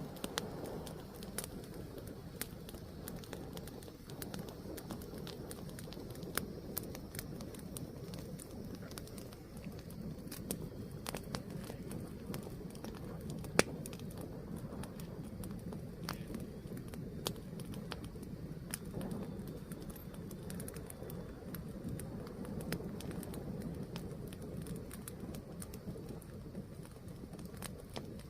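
Fire burning with a steady low rush of flame and scattered sharp crackles and pops, one much louder pop about halfway through.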